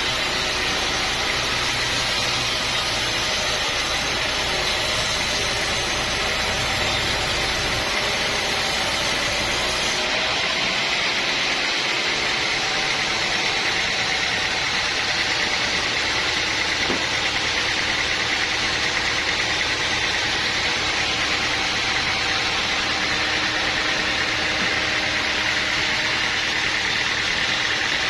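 Sawmill machinery running with a steady mechanical drone. About ten seconds in, the deep hum underneath drops away abruptly.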